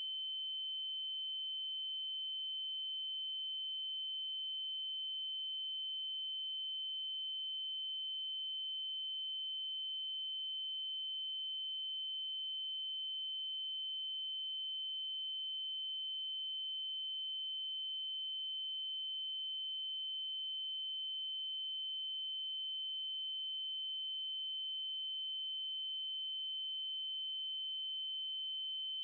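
Electronic 3072 Hz triangle-wave tone, held steady and unchanging at a single high pitch, with faint higher overtones.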